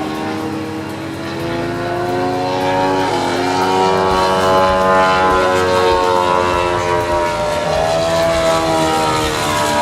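RC model airplane engine running at high throttle, growing louder over the first few seconds, its pitch rising and falling as the plane moves. It is uncertain whether the motor isn't running right or the plane is just carrying a lot of weight.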